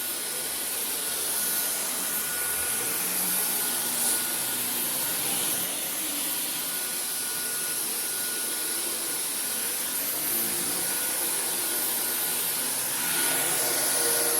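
Dyson V15 Detect cordless stick vacuum running steadily as it is pushed over carpet: a steady rush of air with a thin high whine from the motor.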